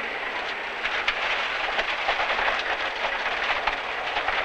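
Rally car driven hard on a gravel stage, heard from inside the cabin: tyre and road noise with loose stones and gravel clattering against the car's underside, over the engine.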